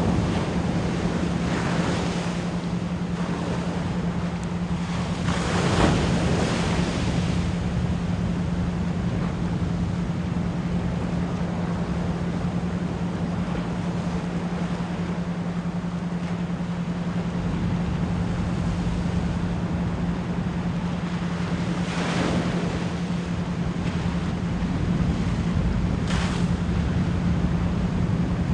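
Ocean waves washing in, with louder surges about 2, 6, 22 and 26 seconds in. Under them runs a steady 174 Hz pure tone, pulsed as an isochronic beat.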